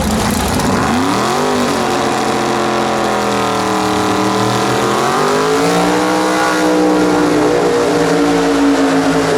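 Pro street muscle car engine at full throttle on a drag run, its pitch climbing steeply about a second in, easing briefly, then climbing again about five seconds in, as after a gear change.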